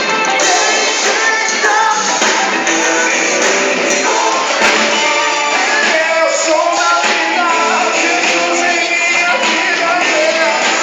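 Live band playing a pop-rock song, with a lead vocal sung over guitars and drums; the recording has almost no bass.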